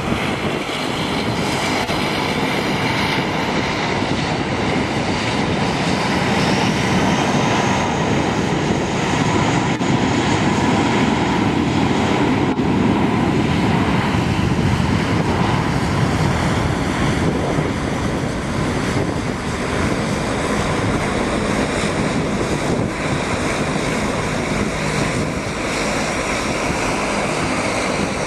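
Jetstar airliner's engines running loudly and steadily, with a high-pitched whine over the noise that rises slightly a few seconds in.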